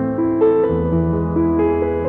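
Piano music: sustained chords and a flowing melody over held bass notes, with a new note every half second or so.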